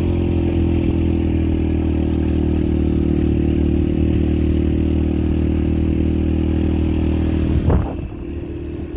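Yamaha TT-R125LE dirt bike's single-cylinder four-stroke engine running at a steady speed while riding, with a steady hiss over it. A short knock comes near the end, after which the engine and hiss ease off a little.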